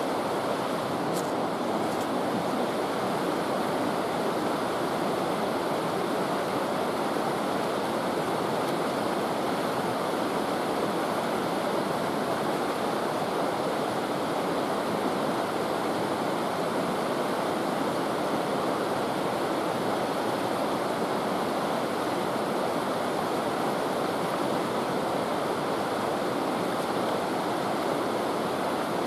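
River water rushing steadily, a constant unbroken roar.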